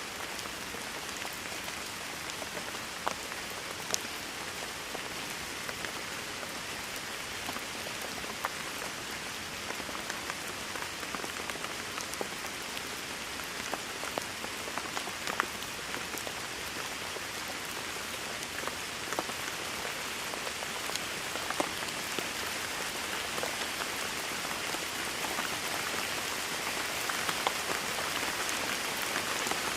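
Steady rain, a dense even hiss with scattered sharp drop ticks, growing slightly louder over the last several seconds.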